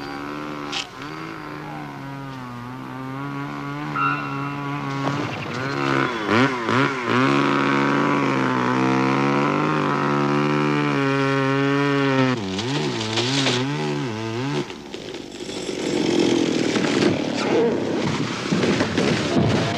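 Chainsaw running, its engine pitch dipping and climbing again several times as it revs and cuts. In the last few seconds the sound turns rougher and noisier.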